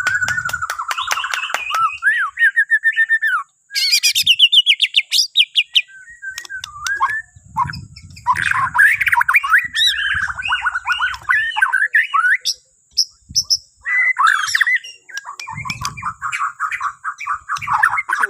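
Bornean white-rumped shama (murai batu) singing: a long run of varied whistled phrases, fast trills and rapid rattling notes, broken by brief pauses.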